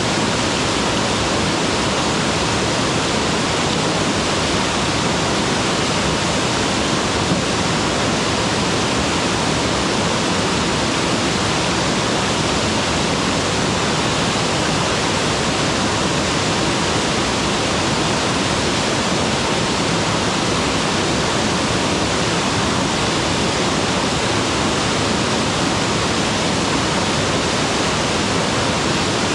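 A mountain waterfall pouring steadily, an even, unbroken rush of falling water.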